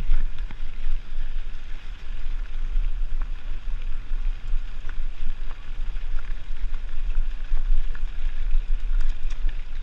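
Wind buffeting the microphone of a camera riding along on a mountain bike, a steady loud rumble, with rolling noise and scattered small clicks and rattles from the bike on the trail.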